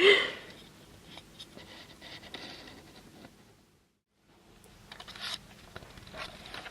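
Faint scratching and light tapping, with a short dead-silent gap about halfway through.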